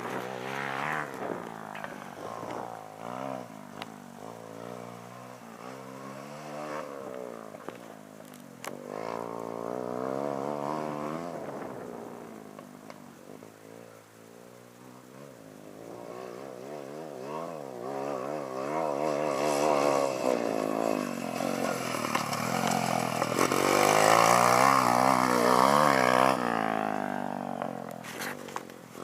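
Pit bike engine being ridden, its pitch repeatedly rising and falling as the throttle is opened and closed. It grows louder in the second half as the bike comes close, then fades just before the end.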